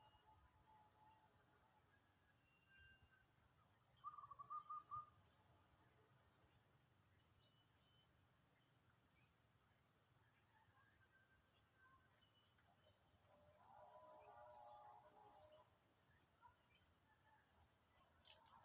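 A steady high-pitched insect drone, faint, with a short bird trill about four seconds in and a burst of soft bird chirps around fourteen seconds in.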